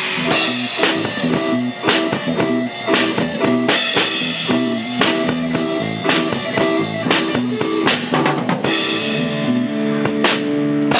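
Live band rehearsing: drum kit with kick and snare driving a steady beat over a stepping bass line. Near the end a quick drum fill leads into a cymbal crash over a held chord.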